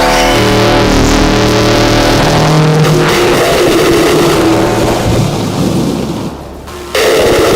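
Eurorack modular synthesizer noise music: loud droning tones that shift pitch in steps, giving way to a harsh noisy texture that drops briefly and slams back in near the end.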